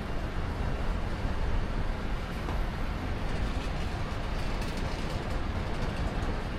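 Steady low rumble and hiss of city street noise, picked up by an action camera carried on a runner.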